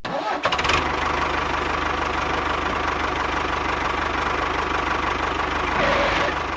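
An engine running steadily with a fast, even firing beat. It starts abruptly.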